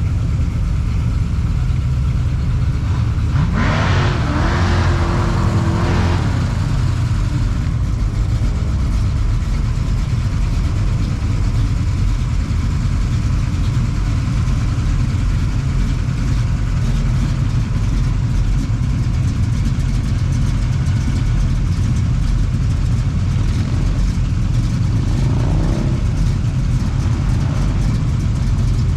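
Car engines running with a steady low rumble; a car revs up with a rising pitch about four seconds in, and again more briefly near the end.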